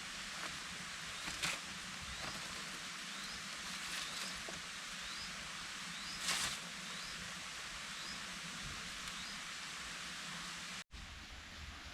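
Rainforest ambience: a steady high insect hiss with a short rising chirp repeating about once a second. Two brief louder crackles stand out, one early and one past the middle, and the sound cuts out for an instant near the end.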